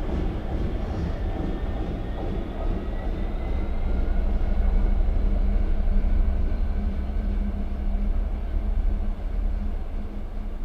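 Train passing through a station: a steady, heavy low rumble with a faint whine that rises slowly in pitch over the first few seconds.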